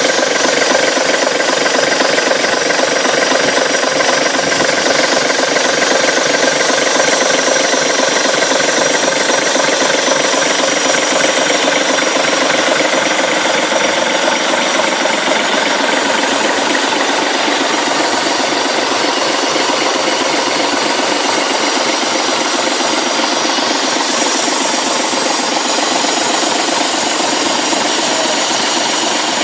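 Leyland engine of the Ribble BD-2 recovery truck idling steadily and evenly, a fast regular firing beat with no change in speed.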